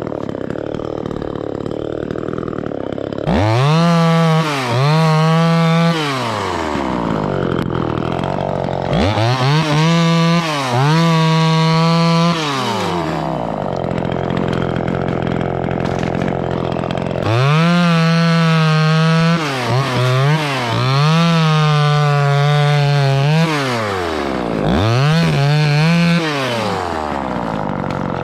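Gas chainsaw run at full throttle in about five bursts of two to four seconds, falling back to idle between them, with brief throttle dips inside some of the bursts.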